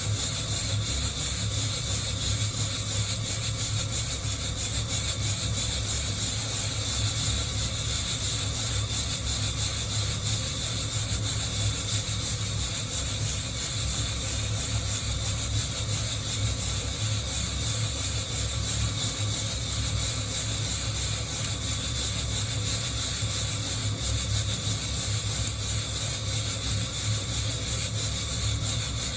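Coffee beans rubbing and rattling in a hand-held mesh roaster, over a steady hiss with a low hum.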